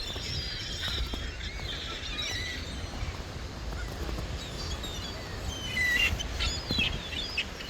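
Birds calling in quick, high chirps, more of them in the second half, over a steady low rumble.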